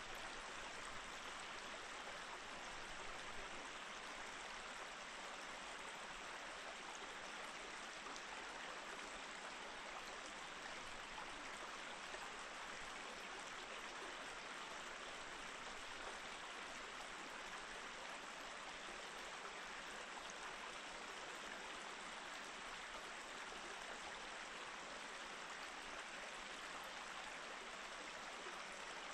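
Small mountain stream flowing over rocks between snowy, partly frozen banks: a steady, even rush and babble of water.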